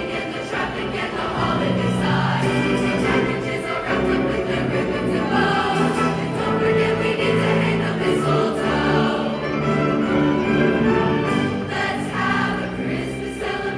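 A large combined choir singing a Christmas song, many voices holding sustained chords with no break.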